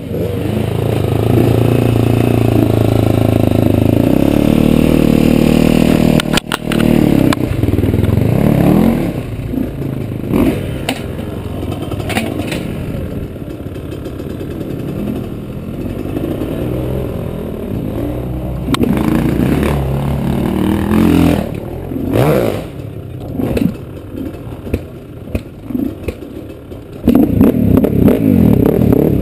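KTM SX-F 250 four-stroke single-cylinder motocross engine revving hard and dropping off again and again as it accelerates, shifts and brakes around the track, heard onboard. The engine holds high revs for the first several seconds and surges loudly again near the end, with scattered knocks and clatter from the bike.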